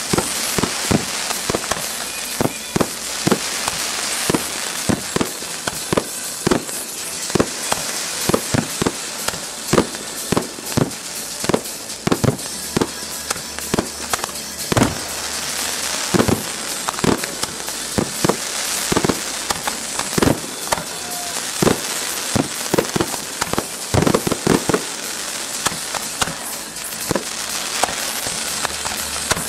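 Fireworks display: a rapid, irregular string of sharp bangs as shells and comets fire and burst, often several a second, over a continuous hissing crackle of rising rockets and sparks.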